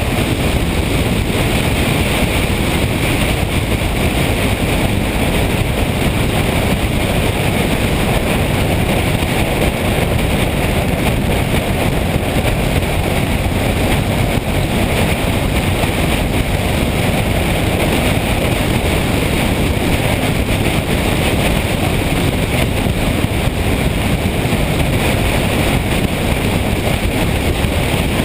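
Steady rush of wind on the microphone with road and engine noise from a moving motorcycle, holding even throughout.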